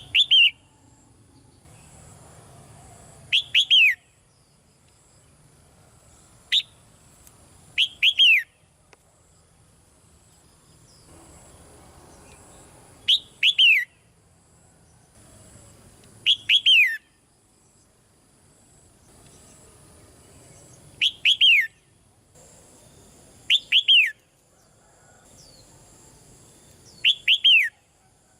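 Red-whiskered bulbul calling: short chirping phrases of two or three quick downward-sliding notes, repeated about every three seconds with pauses between.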